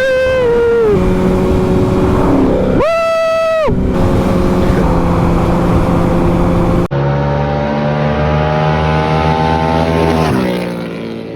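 Motorcycle engine running at speed with road and wind noise, with two short, loud steady tones over it near the start and about three seconds in. Just before seven seconds the sound changes abruptly; the engine note then climbs slowly and drops off about ten seconds in as it slows, getting quieter.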